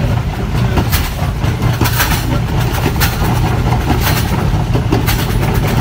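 Diesel train running along the track with a steady low engine drone, its wheels clicking sharply over rail joints about once a second.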